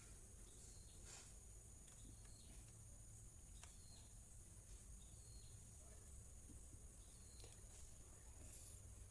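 Near silence: faint room tone of steady hiss and low hum, with a few faint scattered ticks or chirps.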